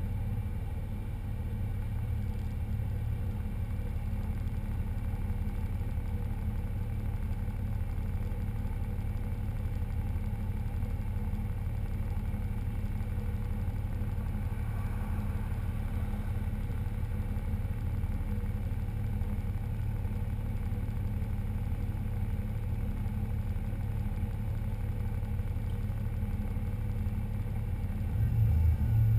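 Car engine running steadily at constant low revs, with a short louder rise just before the end.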